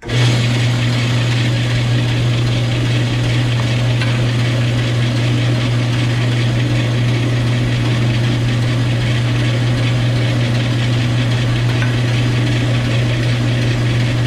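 Metal-cutting bandsaw switched on and running steadily, its blade cutting one face off a 1-inch square steel tube. It comes on suddenly and holds a constant low hum with an even hiss above it.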